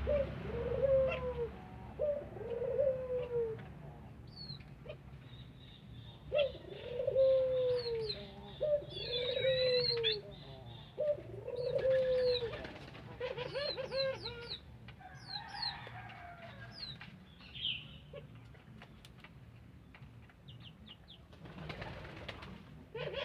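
Male puter dove (ringneck dove) cooing: a run of low, arching coos repeated through the first half or so, with thinner, higher chirps over them.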